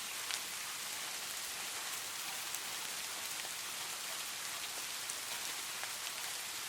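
Steady rain: an even hiss of rainfall with scattered sharper drop ticks, no thunder.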